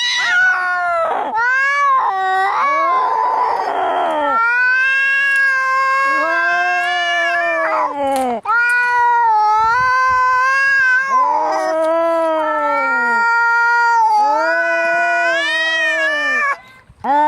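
Domestic cats caterwauling in a fight: long, drawn-out yowls that waver up and down in pitch, one after another with hardly a break, and a harsh hiss about three seconds in.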